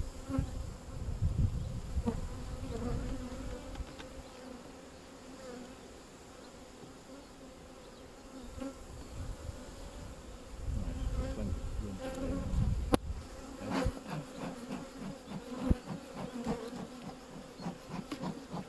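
Honeybees buzzing in a steady hum around an open hive. The colony is agitated and getting defensive. Low handling rumbles, a couple of sharp clicks and a run of light knocks come from the hive being worked.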